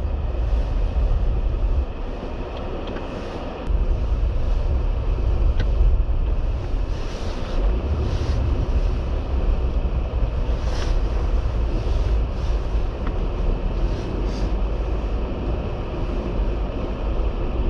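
Jeep Gladiator crawling slowly over snow and ice, heard from inside the cab: a steady low rumble of engine and tyres, easing off for a couple of seconds about two seconds in, with scattered light clicks and knocks.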